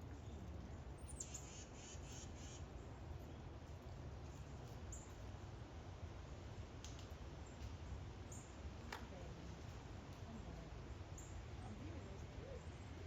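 Quiet outdoor ambience: a steady low rumble with scattered short, high bird chirps, including a quick run of chirps about a second in.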